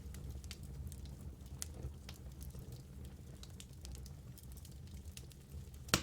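Logs burning in a fireplace, crackling with a scatter of small snaps over a low steady rumble, and one loud pop near the end.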